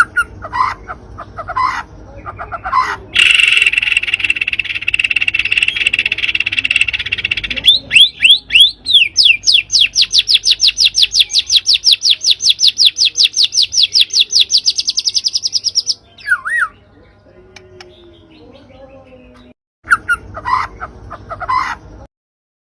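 Songbird song played as a lure recording. It opens with short chirps, then a harsh rasping chatter for about four seconds, then a fast run of rising whistled notes, several a second, for about eight seconds, and ends with a few chirps near the end.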